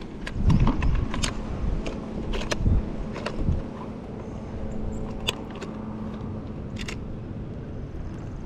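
Scattered clicks and knocks of gear and fish being handled aboard a kayak, busiest in the first few seconds, over a steady low rumble of wind on the microphone.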